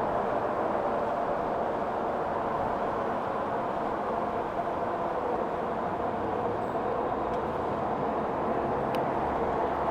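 Steady riding noise from a 60-volt electric bike moving with traffic: an even hum of fat tyres on the road with wind rushing past.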